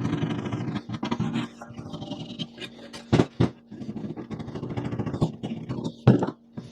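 Rapid scraping strokes, with a faint steady hum underneath and sharp knocks twice about three seconds in and once near the end.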